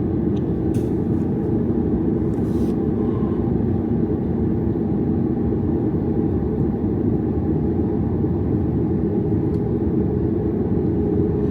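Steady cabin rumble of a Boeing 737 MAX 8 with its CFM LEAP-1B engines running, heard from inside the passenger cabin, with a low hum and a couple of faint ticks in the first few seconds.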